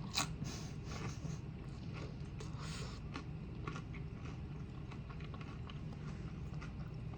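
A person chewing food close to the microphone, with a few short mouth smacks and clicks in the first three seconds, over a steady low hum.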